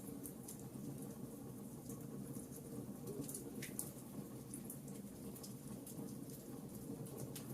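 Wood fire in a fireplace crackling: scattered small, sharp pops over a low, steady rumble of burning.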